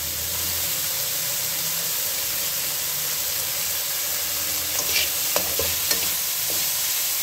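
Chicken strips and julienned carrots sizzling steadily in hot oil in a metal pan, with a few sharp clicks of a metal spatula against the pan about five seconds in as the carrots are stirred in.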